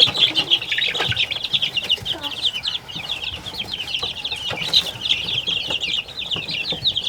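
A crowd of young chicks peeping nonstop, many short high peeps overlapping into a steady chorus, with a couple of light knocks.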